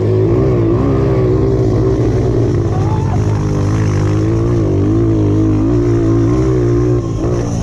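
Mini moto (pit bike) engine running continuously, its pitch rising and falling slightly as the throttle changes.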